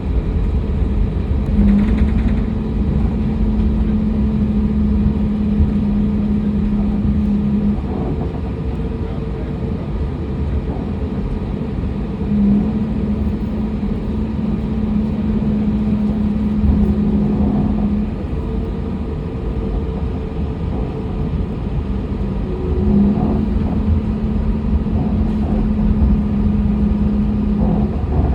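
Airliner cabin noise: a steady low rumble, with a low hum that comes on for about five to six seconds, stops for about four, and returns, three times over.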